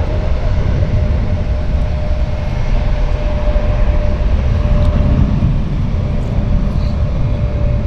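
Jet airliner's engines at takeoff power, a loud steady roar with a steady whine through it.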